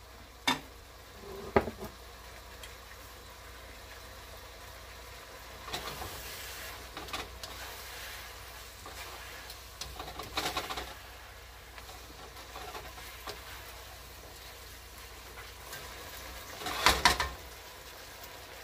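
Beef and onions in oyster-sauce gravy sizzling in a non-stick wok, with a spatula stirring and scraping against the pan several times, the loudest bout near the end.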